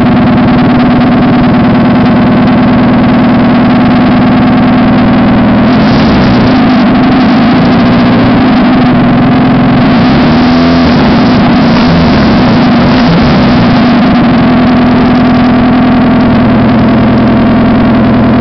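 Loud Honda H-series four-cylinder engine running on its first start after a swap into a Civic, idling steadily. From about six seconds in it is revved up and down several times, then settles back to a steady idle.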